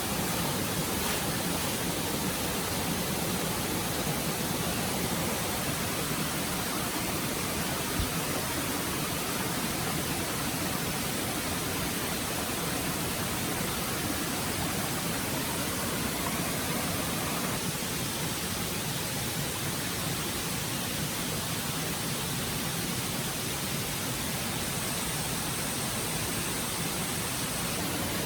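Stream water rushing and splashing, a steady even noise, with one brief click about eight seconds in.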